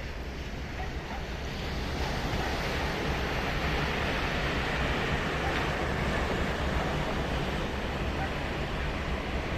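Ocean surf breaking and washing on a sandy beach, a steady rushing wash that swells about a second or two in, with wind on the microphone.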